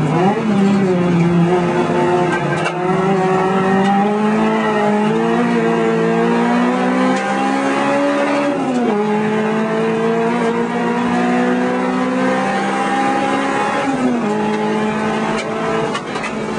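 2002 Acura RSX Type-S's four-cylinder engine at full throttle on track, heard from inside the cabin. There is a quick dip and jump in revs right at the start. The pitch then climbs steadily and drops sharply at upshifts about 9 and 14 seconds in.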